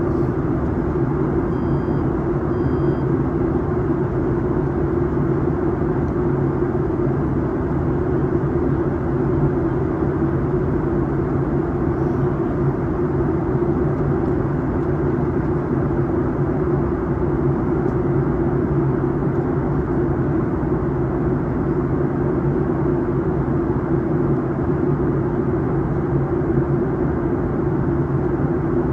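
Steady drone inside an airliner cabin in flight: constant engine hum with a rush of airflow, unchanging throughout.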